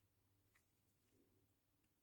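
Near silence: faint room tone with a low hum and one very faint click about a quarter of the way in.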